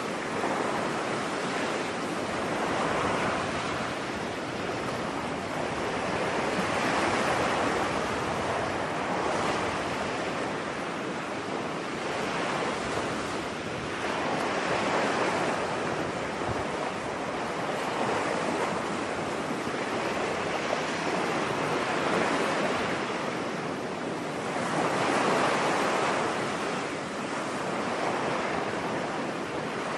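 Ocean waves washing onto a beach: a steady wash of surf that swells and falls back every three to four seconds.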